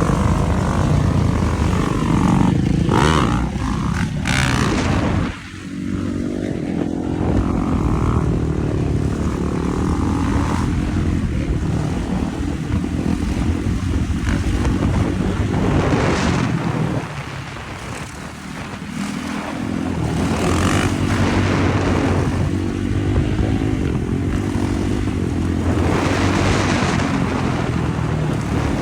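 Dirt bike engine running while being ridden, its pitch rising and falling with the throttle, with bursts of wind noise on the microphone.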